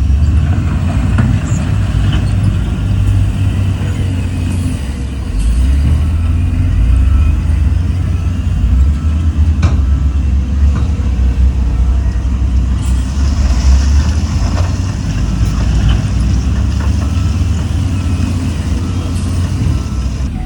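Heavy diesel engine of earthmoving machinery running under load with a deep, steady rumble, easing briefly about a quarter of the way in and picking up again. A few sharp clanks, and a hiss in the second half.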